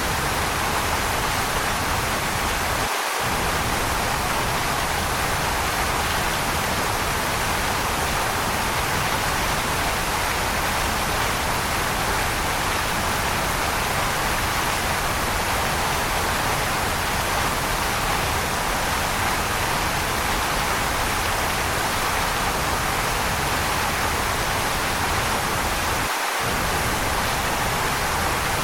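Waterfall rushing in a steady, even hiss with no change in level. The low rumble drops out briefly twice, a few seconds in and near the end.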